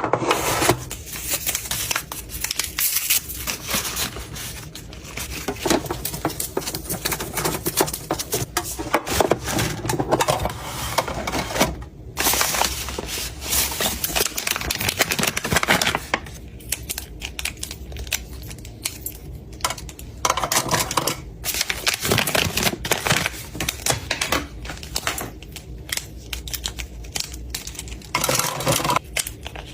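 Small hard items being handled and sorted into storage: a dense, irregular run of clicks, taps and clatter, with stretches of rustling.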